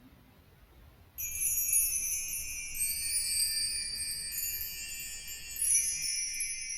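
Faint room tone, then about a second in, background music of high, tinkling chimes and bells begins and carries on steadily.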